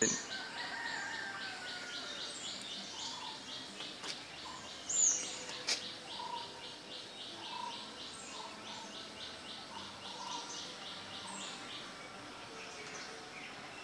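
Birds chirping, with short whistled calls over a steady, rapidly pulsing high trill. One louder chirp comes about five seconds in, followed by a sharp click.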